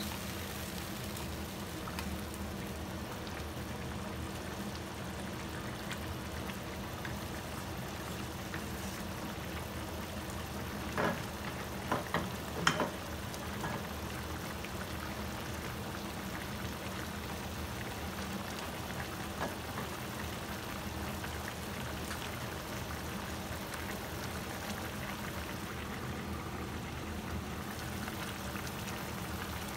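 Cubes of pork belly sizzling steadily as they fry in a pan, with a few sharp knocks about halfway through.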